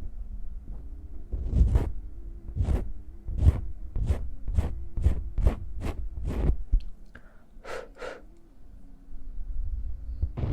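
Hands rubbing and brushing close to a sensitive microphone: a run of quick swishes, about two a second, that pauses for a moment before starting again near the end.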